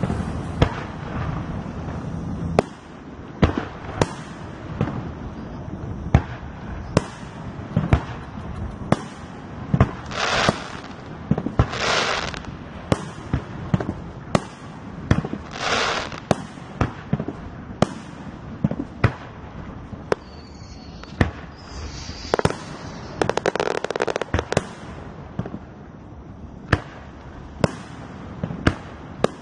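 Fireworks display: aerial shells bursting in the sky one after another, a sharp bang every second or so, with a few longer rushing, hissing bursts lasting about a second.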